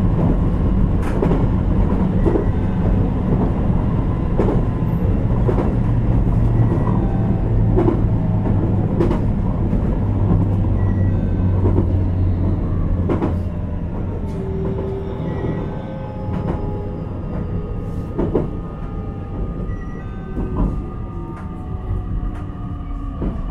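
JR Kyushu 817-series electric train heard from inside the motor car KuMoHa 817-1009, running along the rails: a steady low rumble with regular clicks of the wheels over rail joints. About halfway through the rumble eases and faint whines slide downward in pitch.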